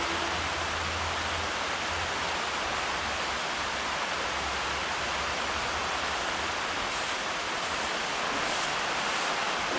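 Rain falling steadily, an even, dense hiss with no breaks.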